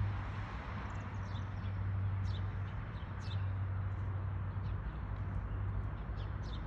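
Small birds chirping, repeated short calls that drop quickly in pitch, over a steady low hum.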